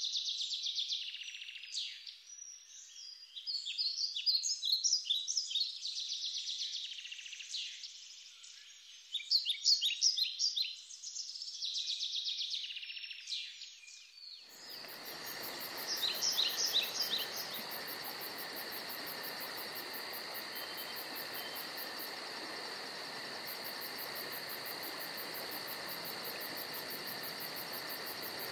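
Small birds singing in a forest: repeated chirps and trills in short phrases. About halfway through it cuts to a steady, fast, high insect chirring over a background hiss, with a few more bird chirps just after the cut.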